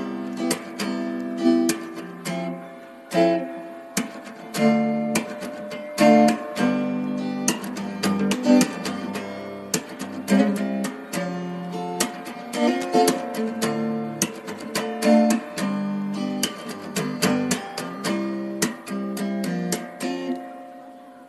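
Background music: a plucked and strummed guitar tune with steady, rhythmic note attacks.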